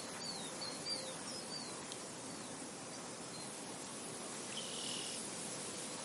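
Soft, steady wind over a field, with a small bird giving a quick run of short high chirps in the first two seconds and one longer high note about three quarters of the way through.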